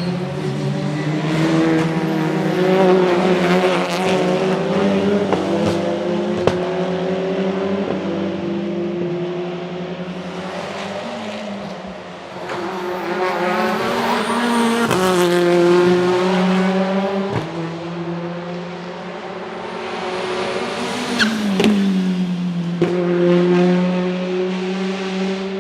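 Hyundai Elantra N's turbocharged 2.0-litre four-cylinder engine under hard driving, its note rising and falling several times as it accelerates and comes off the throttle, with a few sharp cracks.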